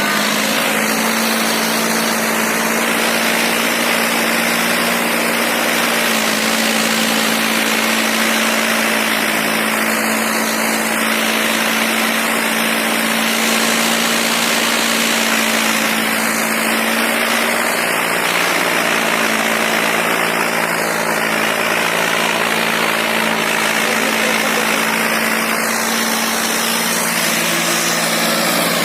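John Deere 5310 tractor's diesel engine running steadily, its pitch dropping slightly about eighteen seconds in, under a loud, dense noise.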